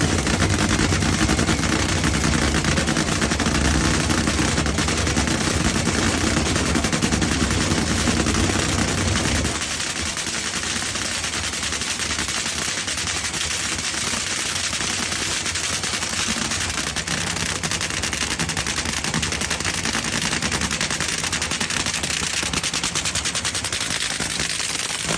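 Drag racing engine running with a loud, rapid, crackling firing from its open exhaust. Its deep low note drops away about nine and a half seconds in, leaving a steady, higher crackle.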